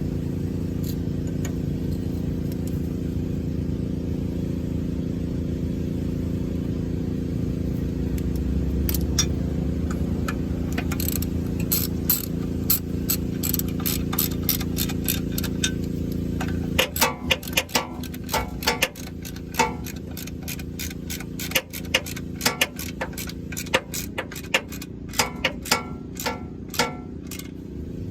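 Hand ratchet on a 13 mm socket clicking in quick runs as the clutch pressure plate bolts are snugged down, over a steady low hum. The clicks start about a third of the way in and come thickest in the last third.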